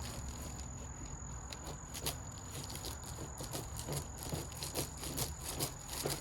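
Irregular small ticks and patters, more frequent from about three seconds in, plausibly gasoline dripping from a disconnected fuel line on an old Sears garden tractor engine, over a steady low hum.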